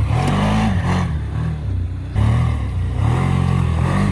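Engine revving up and down in repeated swells, dipping briefly about two seconds in.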